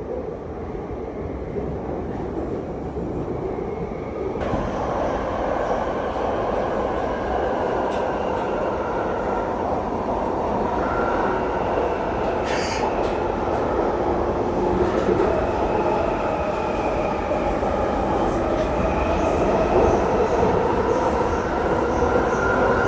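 A London Underground Jubilee line train running, heard from inside the carriage: a continuous rumble with a wavering whine. The noise jumps up suddenly about four seconds in, and there is a brief click near the middle.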